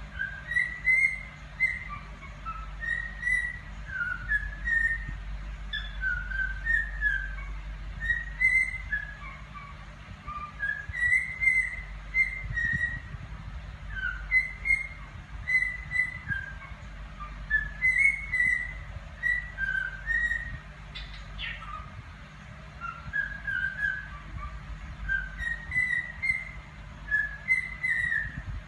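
Cockatiel whistling a tune: short phrases of quick notes gliding up and down, repeated every few seconds.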